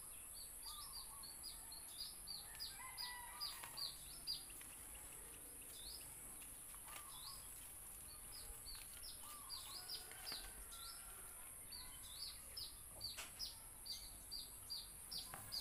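Birds chirping: faint, short high chirps repeated several times a second, with a few lower calls among them, over a steady high hiss.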